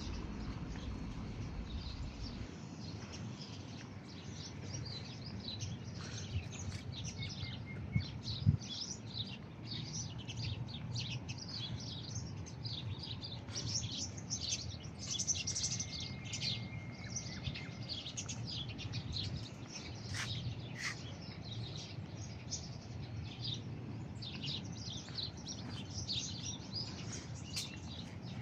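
Many small birds chirping and twittering without a break, over a steady low rumble of background noise. There is a single short knock about eight seconds in.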